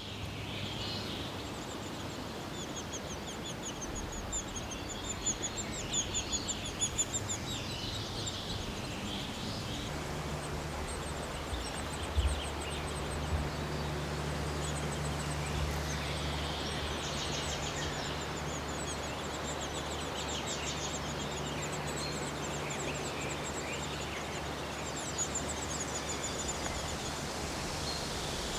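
Small birds calling in bursts of rapid, high-pitched chirps. A steady low hum joins about a third of the way in.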